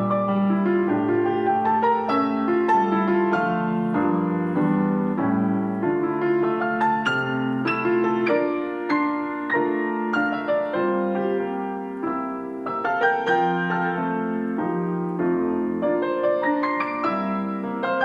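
Piano ensemble of two players performing a lyrical classical piece: a continuous flow of melody notes over sustained lower chords.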